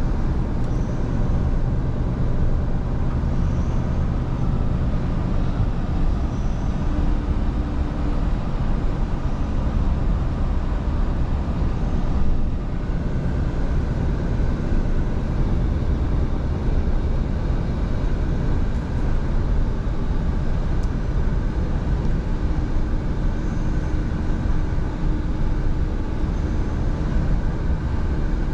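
Scania V8 truck driving at a steady speed: continuous engine and road noise, even in level throughout.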